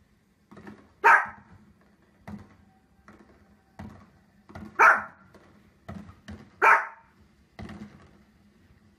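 Small dog barking: three loud, sharp barks about two seconds apart, with quieter short sounds in between.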